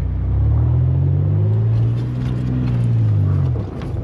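Tow truck engine running under load as the truck is manoeuvred into position, its pitch rising slightly and easing back, then dropping away about three and a half seconds in.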